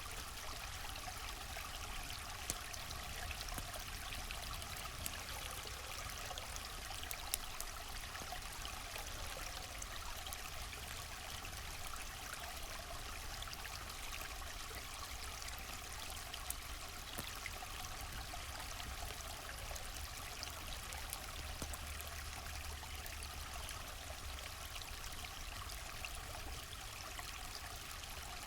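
River water flowing steadily, an even rushing stream sound, with a few sharp clicks scattered through it.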